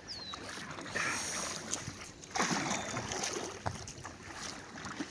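Oar strokes swishing and splashing in the water beside a sled floated as a makeshift boat, with two louder swells of water noise about a second and two and a half seconds in.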